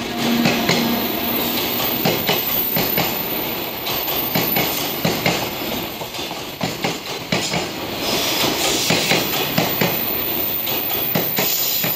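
Loaded container flatcars of a freight train rolling past, their wheels clattering over the rail joints in a steady run of irregular clicks and knocks over a continuous rolling rumble.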